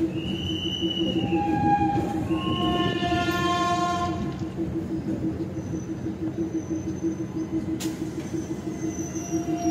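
Train rolling slowly through a station: a steady rumble with a fast pulsing beat from the wheels on the rails. There are high metallic squeals in the first four seconds, fainter ones later, and a single sharp click about eight seconds in.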